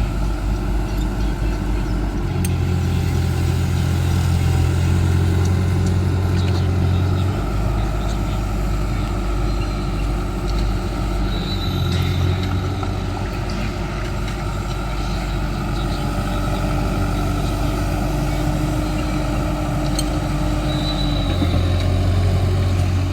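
Caterpillar excavator's diesel engine running steadily, its low drone stepping up and down several times as the load changes.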